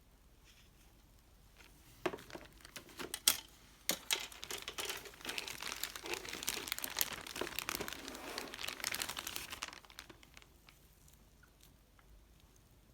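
Plastic packaging of a model kit's parts being handled and crinkled: a few sharp crackles about two seconds in, then steady crinkling for several seconds that stops about ten seconds in.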